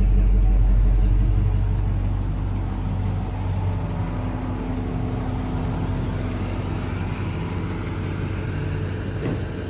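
Car engine idling with a steady low rumble, loudest for the first second or two and then easing off a little; most likely the 2009 Dodge Challenger.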